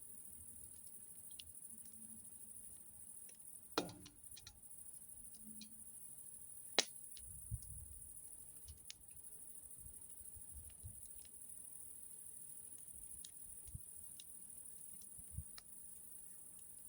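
Campfire crackling: scattered small pops and two sharper snaps, about four and seven seconds in, over a steady high hiss.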